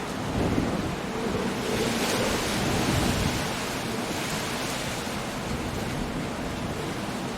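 Storm surf breaking on a rocky shore under gusting wind, a wave swelling in the first few seconds and then settling to a steady rushing wash.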